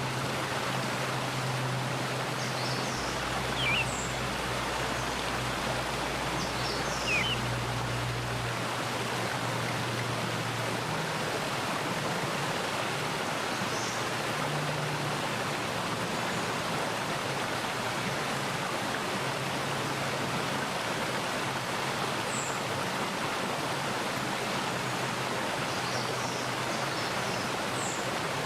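A mountain stream running steadily over rocks, a continuous rush of water. A few short bird chirps sound over it, the clearest two at about four and seven seconds in, with fainter high chirps later.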